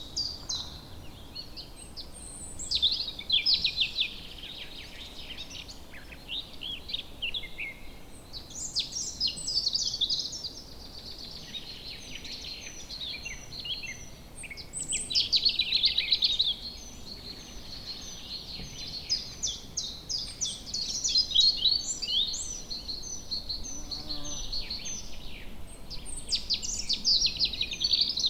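Several songbirds singing at once, a continuous chorus of overlapping chirps, trills and short whistled notes.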